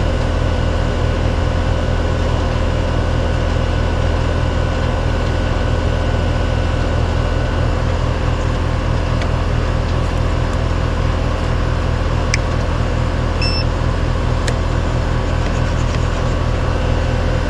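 Air conditioner or heat pump outdoor unit running steadily, its compressor and condenser fan humming, now working again after a failed run capacitor was replaced. A few faint clicks come through about two-thirds of the way in.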